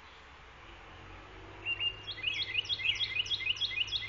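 A small songbird chirping in a fast run of high, repeated notes, about four or five a second, starting a little under two seconds in.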